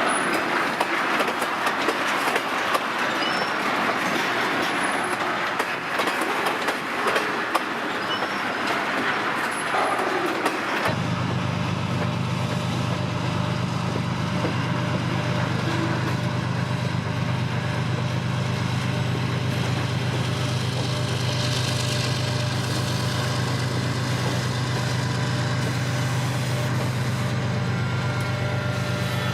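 Freight train rolling past with steady wheel-on-rail rushing. About eleven seconds in, the sound changes abruptly to the steady low drone of a diesel locomotive engine running.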